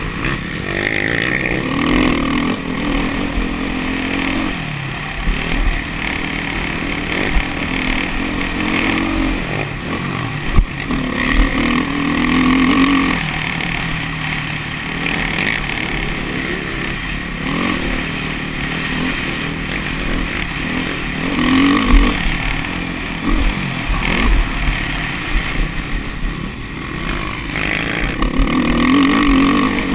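Motocross bike engine revving up and dropping back over and over as it is ridden, with a steady low rumble of wind on the microphone underneath.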